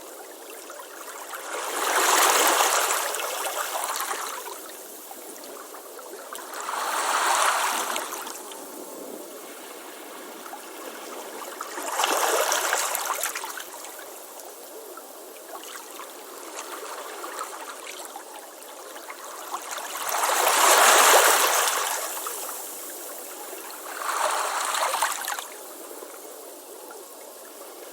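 Ocean waves washing onto a beach: five surges of surf a few seconds apart, the biggest about two-thirds of the way through, with a steady hiss of water between them.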